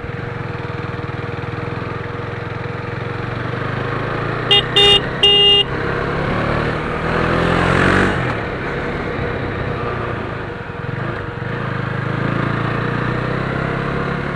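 KTM Duke 390's single-cylinder engine running steadily on the road, with wind rushing past. About four and a half seconds in, a vehicle horn gives three short toots, the loudest sound, and around eight seconds in a vehicle passes with a brief rise and fall in noise.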